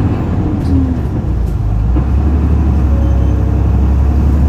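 Isuzu Erga city bus's turbo-diesel engine, heard from the rear seat above the engine: a low drone that grows steadily louder from about two seconds in as the bus pulls harder.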